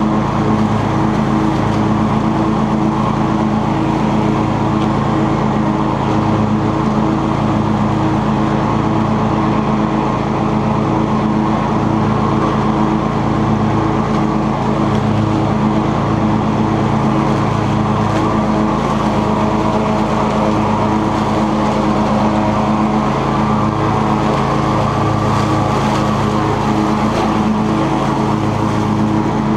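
Cub Cadet XT2 lawn tractor's engine and 42-inch mower deck running steadily while mowing, with a low, uneven pulsing.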